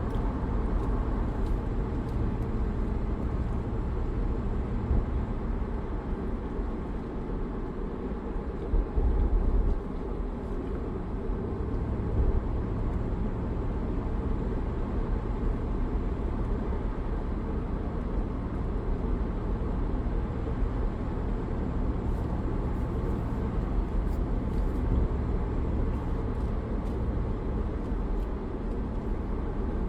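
2004 Land Rover Discovery 2 on the move: a steady low rumble of engine and road noise, with a short louder patch about nine seconds in.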